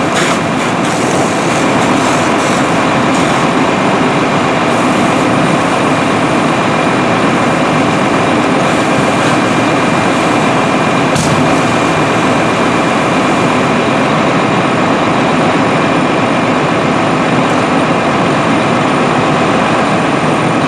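Fire engine running, with a loud, steady engine and road rumble.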